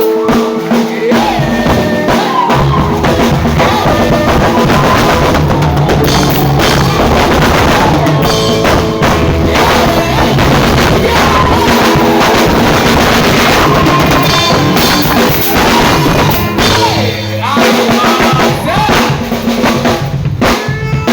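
Live band music with the drum kit to the fore, a drummer's feature spot: kick, snare and rim hits over steady bass notes, with other instruments playing along.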